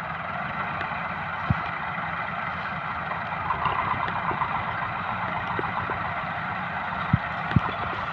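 A diesel tractor engine runs steadily, with a few short sharp knocks about a second and a half in and twice near the end.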